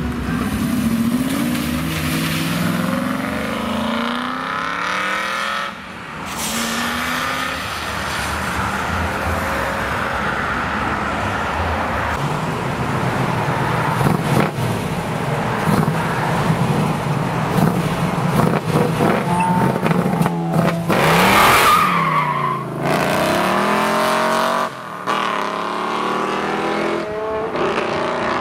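Several performance cars accelerating away one after another, their engine notes sweeping up and down through the revs, with abrupt changes from one car to the next. An Aston Martin V8 Vantage pulls away first, and a classic first-generation Chevrolet Camaro follows with a steadier low engine note.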